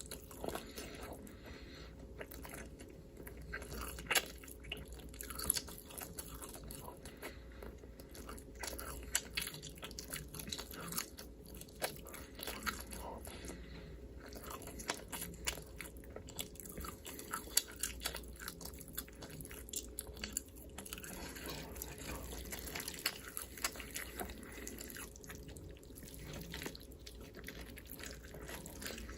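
Close-miked eating sounds: chewing, biting and crunching, with many small wet clicks over a faint steady hum.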